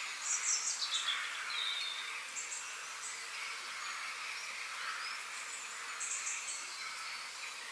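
Birds singing in woodland: several short high chirps and falling whistled notes come and go over a steady background hiss, with a brief burst of calls about half a second in.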